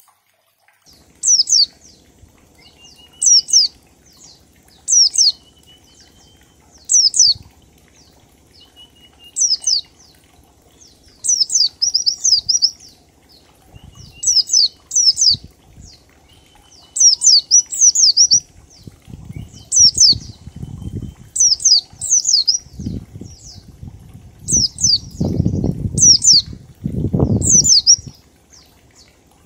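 White-eye (pleci) singing in the 'ngalas' style: short, high, falling chirps repeated every second or two, sometimes in quick pairs or runs. Low, muffled thumps come in during the second half, loudest near the end.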